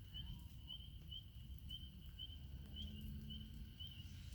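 Outdoor evening sounds: a single small animal gives a short high chirp about twice a second, steady and even, over a low rumbling background noise.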